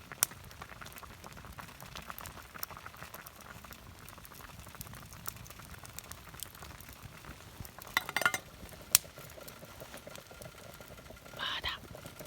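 Food sizzling over a campfire, with a steady hiss and scattered sharp pops and crackles. A cluster of louder crackles comes about eight seconds in, and a single sharp pop about a second later.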